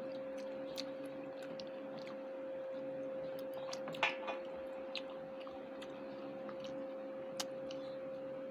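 Close-up eating sounds: chewing, with scattered small wet clicks and smacks, a cluster of them about four seconds in. A steady hum runs underneath.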